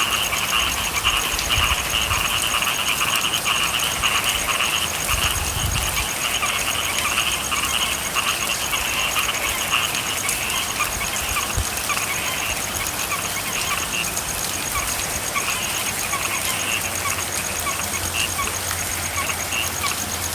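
Frogs calling in a dense chorus over steady rainfall. A high-pitched chorus is strongest for the first several seconds, thins out, and builds again near the end, with lower repeated calls throughout.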